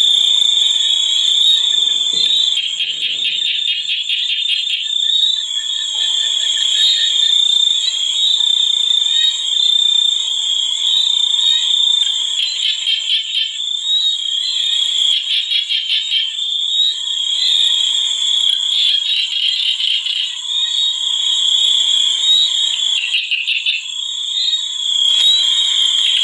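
Night chorus of frogs and insects: a continuous high, shrill drone with stretches of fast pulsing trills over it.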